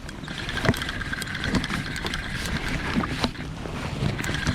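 Water sloshing against a fishing kayak's hull, with scattered light clicks and knocks.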